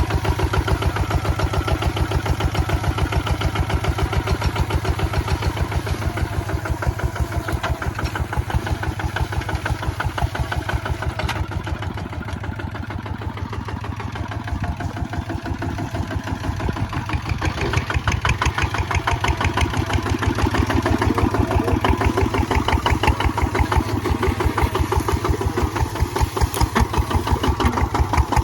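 Kubota ZT155 single-cylinder diesel engine on a walk-behind tractor running steadily with an even thudding beat of firing strokes, easing off slightly about halfway through and picking up again toward the end.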